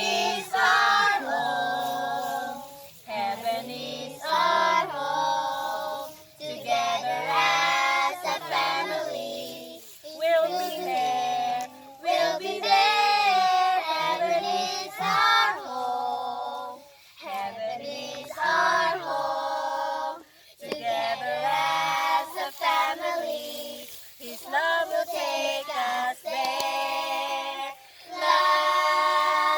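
Young voices singing a song, in phrases of one to three seconds separated by short breaths.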